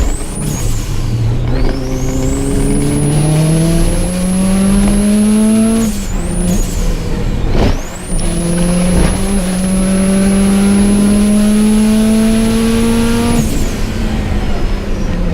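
Subaru Impreza GC8's flat-four engine under hard acceleration on track: two long pulls with the revs climbing steadily, each with a high whine that sweeps up and holds. The pulls are split by a brief lift about six seconds in, and the revs drop near the end.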